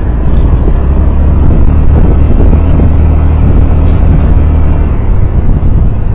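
Loud, steady low rumble of a vehicle moving on the road, with wind noise on the microphone, the deepest part easing slightly about five seconds in.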